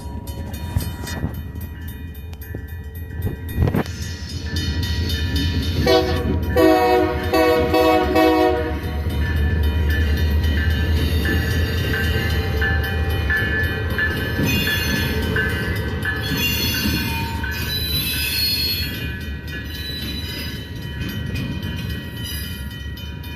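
Union Pacific train passing a grade crossing: a low, steady locomotive rumble with the rolling cars, and the locomotive's air horn sounding for a few seconds about six seconds in, the loudest part. The crossing's warning bell rings along with it.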